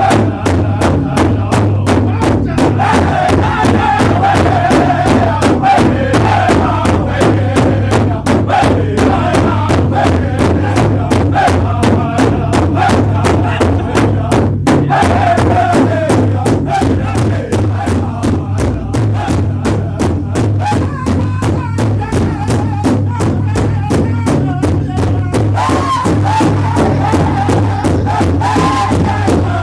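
Loud live jam of drums and percussion keeping a quick, even beat of about four hits a second, with voices chanting over it.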